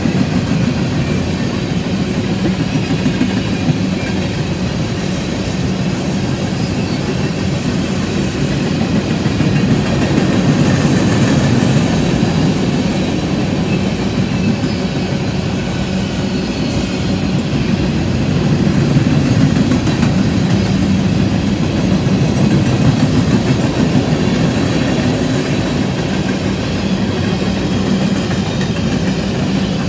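Freight train's covered hopper cars rolling past at close range: a continuous rumble of steel wheels on rail that swells and eases slightly as the cars go by.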